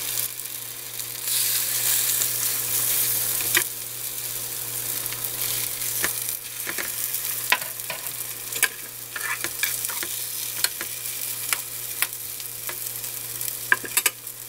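Egg-battered jeon (perilla leaves, green chilies and meat patties) sizzling in oil in a nonstick frying pan, a continuous hiss broken by scattered sharp clicks and pops. A steady low hum runs underneath.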